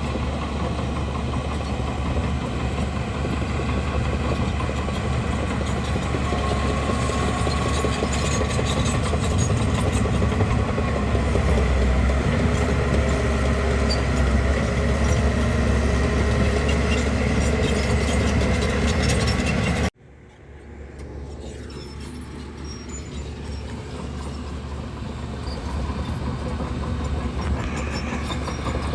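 Bulldozer's diesel engine running steadily with light metallic clinks. About twenty seconds in the sound cuts off abruptly and comes back much quieter, slowly growing louder.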